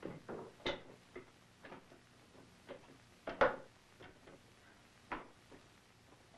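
Irregular wooden and metal knocks and scrapes from a hand-worked rifling bench as the toothed cutter rod is pulled through the iron barrel along its spiral wooden guide, the loudest knock about three and a half seconds in. The cut has just been deepened with a paper shim, making the cutter very hard to pull.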